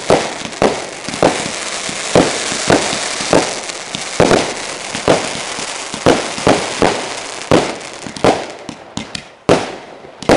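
Display fireworks going off in a rapid barrage: sharp bangs one or two a second. A dense hiss fills the gaps between bangs for the first few seconds, and the bangs come faster near the end.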